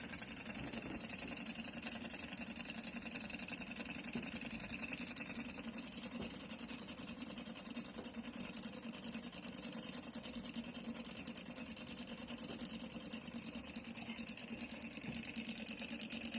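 Small Stirling engine running fast, with a rapid, even mechanical chatter from its piston and flywheel. It is driven by steam from boiled water under the bottom plate and dry ice on the top plate. One sharp click comes near the end.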